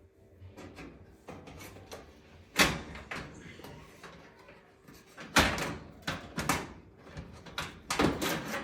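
Knocks and rattles of oven parts being handled and fitted back into place, with a few sharp bangs about two and a half seconds in, again near halfway, and several more toward the end.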